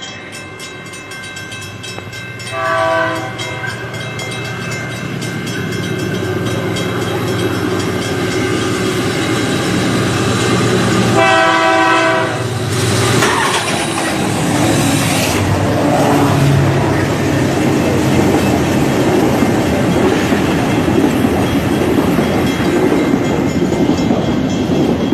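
A loud multi-tone horn blows twice, briefly about three seconds in and longer around eleven seconds in, over the steady rumble of a heavy vehicle in motion that grows louder.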